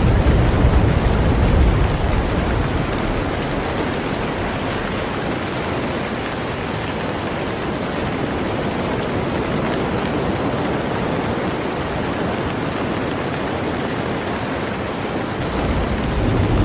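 Heavy rain falling steadily on a boat, an even hiss. A low rumble fades out in the first two seconds and comes back near the end.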